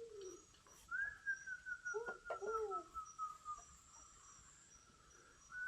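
Bird calls: a rapid run of notes, slowly falling in pitch, lasting a couple of seconds and starting again near the end. A few low arching notes sound in the middle, with a faint high repeated pulsing behind.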